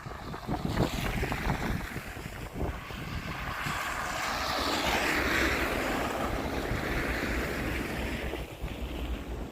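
A vehicle passing on a slushy, snow-covered street, its tyre hiss swelling for a few seconds and fading away, over low wind rumble on the microphone.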